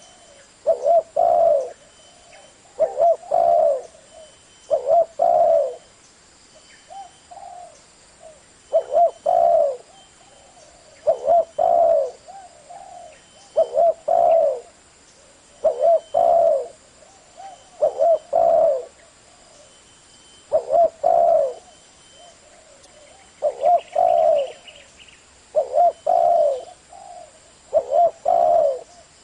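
Spotted dove cooing: a short phrase of a few low coos about every two seconds, over and over.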